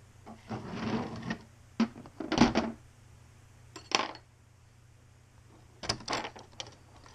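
Internal parts of an opened airsoft gearbox being handled: a brief scraping rustle, then a few separate clicks and knocks of small plastic and metal parts, the loudest about two and a half seconds in.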